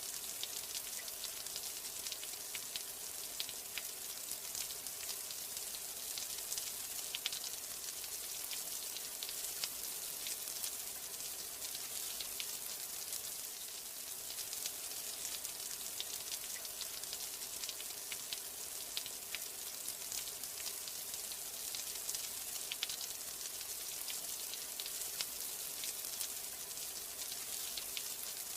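Steady rain falling, a dense high hiss with many small irregular drop ticks scattered through it.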